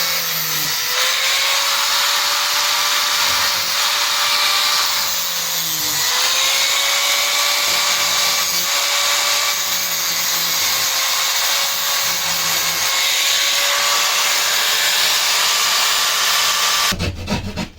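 Electric power tool motor running continuously at a steady speed, its pitch sagging briefly twice as it is loaded, with a loud hiss from the cutting or drilling.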